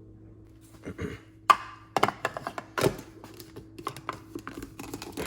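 Kitchen utensils and containers being handled while ice cream is put in for a milkshake: a string of knocks, taps and clicks, the sharpest about one and a half seconds in, over a low steady hum.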